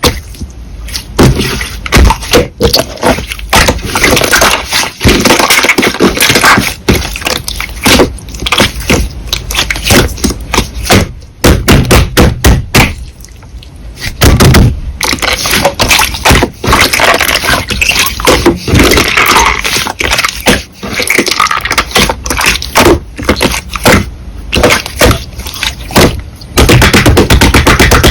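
Slime being squeezed and pressed by hand close to the microphone: dense crackling, clicking and popping, with a few short quieter pauses.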